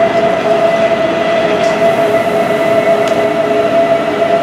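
A train running past close by: loud, steady running noise with a steady whine held over it.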